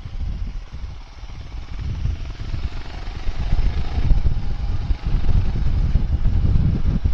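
Royal Enfield Interceptor 650 motorcycle on the move, its engine running with a low rumble that grows louder over the first few seconds, dips briefly about five seconds in, then holds steady.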